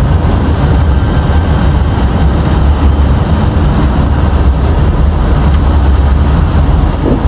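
Steady low rumble of cockpit noise, engines and airflow, in an A320 flight deck during the climb-out just after rotation on a touch-and-go.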